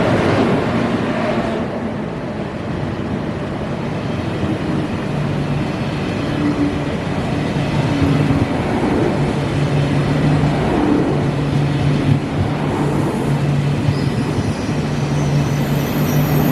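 A train running on the tracks close by: a steady rumble with a low hum that comes in about five seconds in, and high-pitched wheel squeal beginning near the end.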